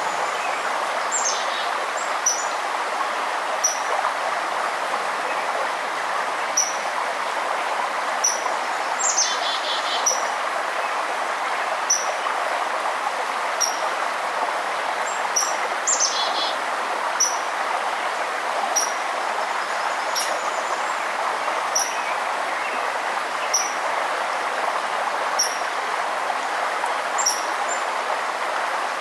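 A steady rush of flowing river water with a small bird repeating a short, high chirp about every second and a half. Twice there is a brief trill.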